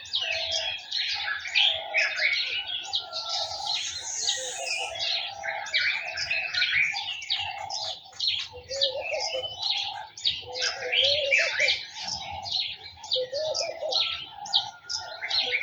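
Garden birds chirping and singing in a dense, unbroken chorus of many high calls. From about halfway, a lower call repeats every couple of seconds beneath them.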